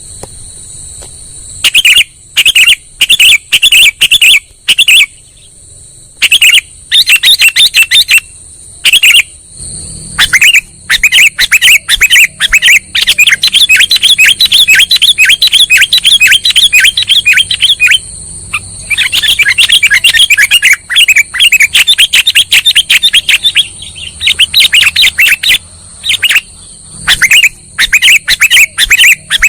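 Sooty-headed bulbul (kutilang) lure call: loud runs of quick chirps in bursts with short pauses, over a steady high-pitched whine.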